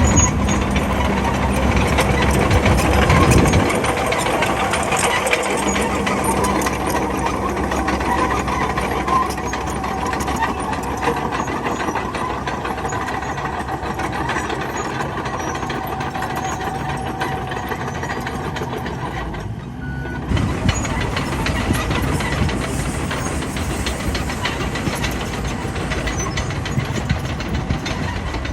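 Bulldozer's diesel engine running steadily at work, its note changing about three seconds in and briefly dropping about two-thirds of the way through. A single short high beep sounds just before that dip.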